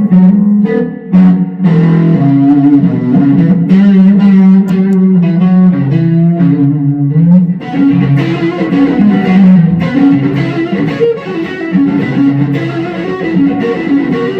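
Fender Player Series Stratocaster electric guitar played through an effects pedalboard into a Fender Super Reverb amplifier: a continuous run of notes with brief breaks about a second in and near eight seconds.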